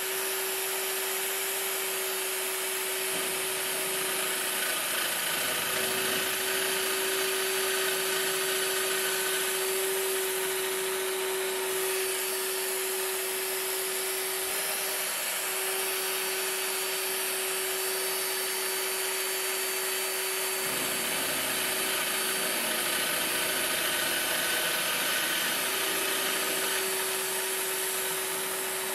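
An electric power tool's motor running steadily on metal, a constant whine over a rough abrasive hiss, the whine faltering briefly a few times as the work loads it.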